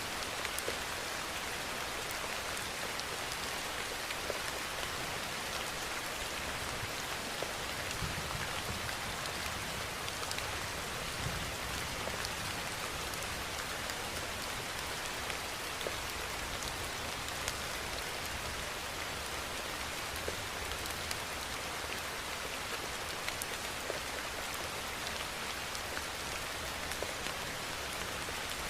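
Steady rainfall: an even hiss of rain with many small, close drop ticks scattered through it.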